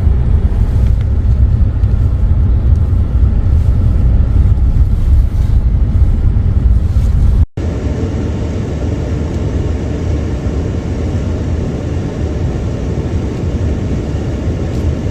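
Steady low rumble and noise of a vehicle driving. It cuts off abruptly about seven and a half seconds in, and a second, slightly quieter stretch of similar road noise follows.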